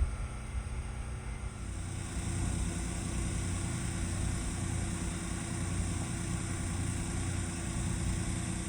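An engine running steadily, getting a little louder about two seconds in.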